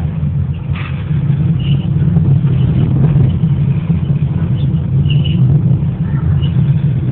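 Small 200-horsepower diesel locomotive running steadily while hauling carriages: a low engine drone that grows slightly louder about two seconds in, with a few brief high squeaks.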